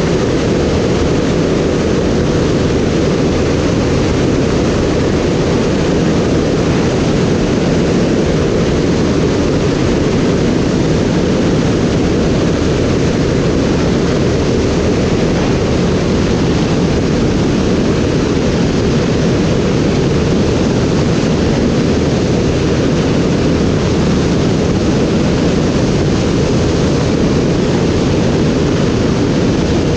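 Steady, loud rushing noise of a flight, wind and motor noise with no distinct pitch, unchanging throughout.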